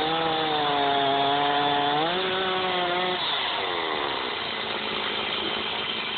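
Two-stroke chainsaw running at high revs cutting into a log, its pitch stepping up twice. About three seconds in the revs fall away to a low idle.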